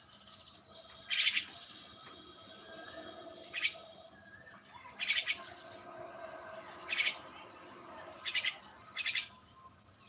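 Birds chirping: about six short, harsh calls spaced a second or two apart, with fainter twittering between them.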